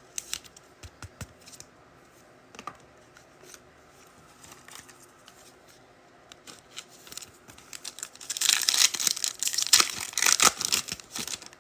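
Foil trading-card pack wrapper being torn open and crinkled, a loud dense crackle about eight seconds in, after several seconds of light clicks and taps from handling the cards.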